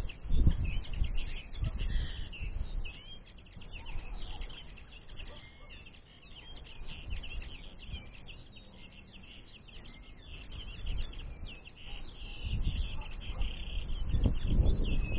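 Common linnets twittering: a rapid, unbroken run of short chirps and trills. A low rumbling noise comes and goes near the start and swells again toward the end.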